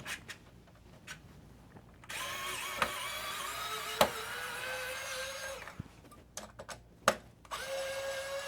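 Small electric screwdriver running twice as two Phillips screws are backed out: a steady motor whine for about three and a half seconds starting about two seconds in, a few clicks, then a second run starting near the end.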